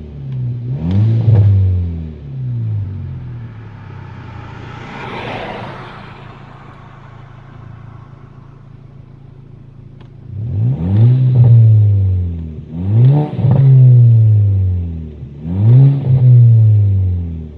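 Turbocharged 2.0 TFSI four-cylinder engine revved in quick blips and let fall back toward idle, with exhaust crackles on the overrun from a crackle map on its Bosch MED9 ECU. A rev near the start, a quieter spell with a brief whoosh in the middle, then three more revs in the second half.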